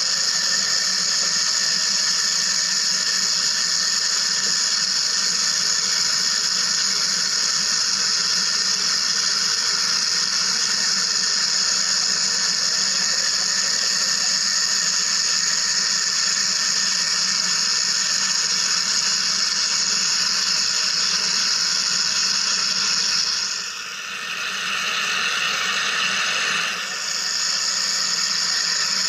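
Wire EDM machine running: a steady, high-pitched hiss and whine. Near the end it briefly changes to a lower, slightly quieter hiss for about three seconds, then returns.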